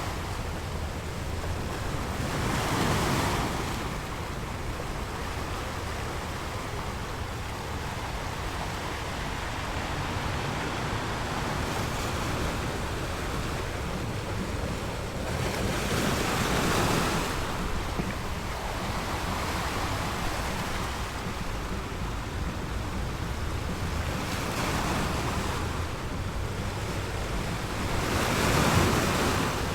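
Ocean waves: a steady wash of surf, with waves breaking and swelling louder a few seconds in, about halfway through, and twice near the end.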